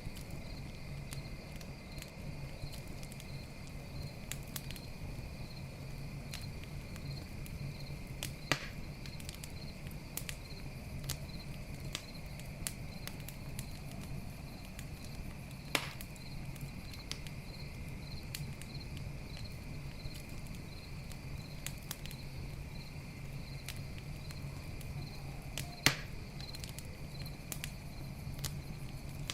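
Campfire crackling, with scattered small clicks and three sharp pops, over steady high cricket chirping.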